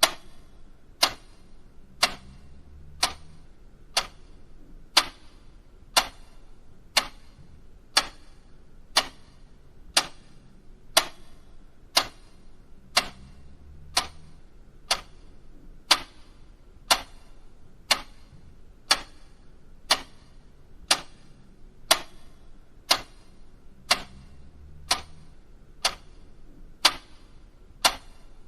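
Mechanical clock ticking steadily, about one crisp tick a second.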